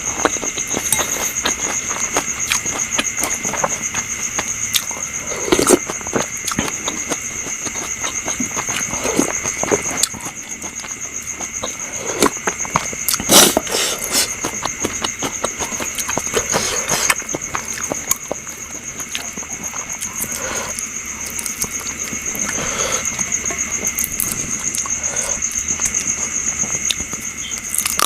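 Steady high-pitched chirring of insects, with the close sounds of a person eating over it: chewing, lip smacks and short clicks, the loudest about halfway through.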